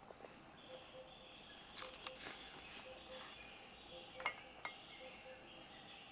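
A few light clinks of metal utensils against cookware: two about two seconds in and two more a little after four seconds, the third the loudest.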